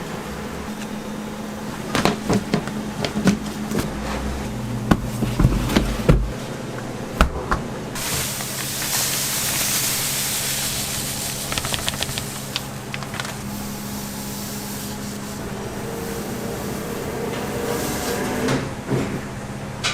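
Clatter and knocks of work in a doughnut shop's kitchen over a steady machine hum, then a loud hiss that starts suddenly about eight seconds in and fades away over several seconds.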